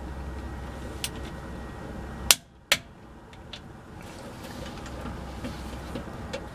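A few sharp metallic clicks and knocks of hand tools, the two loudest close together in the middle, over a steady low hum.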